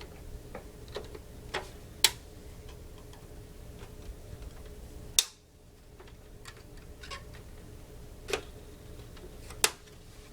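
Plastic latches of an Xbox 360 case clicking and snapping as the outer shell is pried loose: a string of sharp, uneven clicks, the loudest about two and five seconds in.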